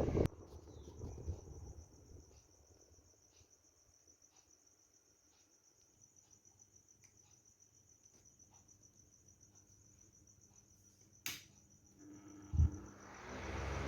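Cricket trilling: a faint, steady high trill, with a sharp click about 11 seconds in. A rushing noise stops just after the start and comes back near the end.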